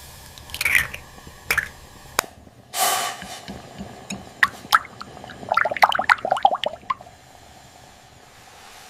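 Kitchen handling sounds: scattered light clicks and knocks of utensils or containers, a brief rush of noise about three seconds in, and a quick run of clattering around six seconds in.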